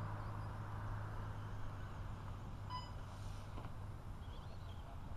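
Steady low hum and rumble with a single short electronic beep about halfway through.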